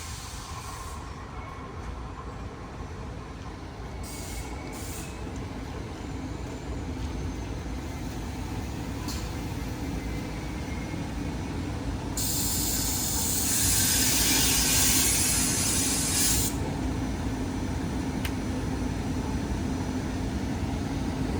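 SEPTA Regional Rail train rolling in with a low rumble and a steady hum that slowly grow louder. Around the middle comes a loud hiss of air lasting about four seconds.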